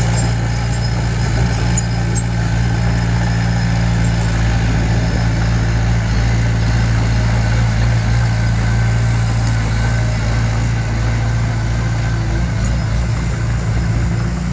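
Diesel engine of heavy earthmoving equipment running steadily, with a deep, even drone.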